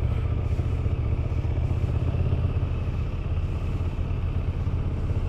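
Motorcycle engine idling steadily, an even low-pitched sound with no revving.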